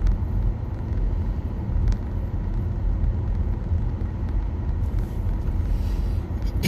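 Steady low road and tyre rumble heard inside the cabin of a moving 2021 Nissan Leaf electric car, with no engine note.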